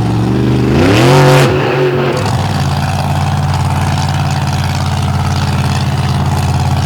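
Monster truck engine revving up sharply about a second in, then dropping back and running steadily under throttle.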